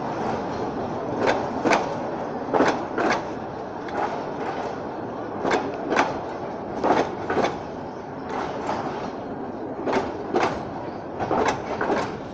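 Bangladesh Railway passenger coaches rolling past close by, over a steady rumble. Their wheels clack over the rail joints in pairs of knocks about half a second apart, a pair every second and a half or so.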